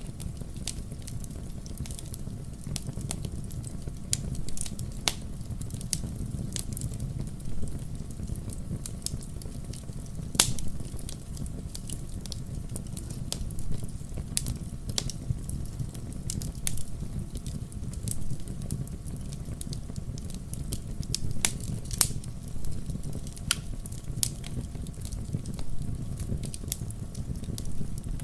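Wood campfire crackling: irregular sharp pops and snaps over a steady low rumble of the burning fire, with a few louder pops.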